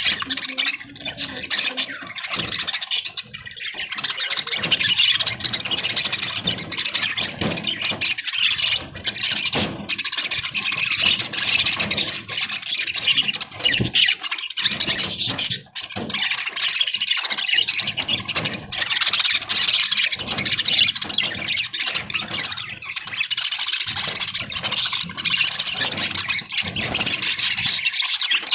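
A flock of budgerigars chattering and warbling continuously, a dense mass of high-pitched calls.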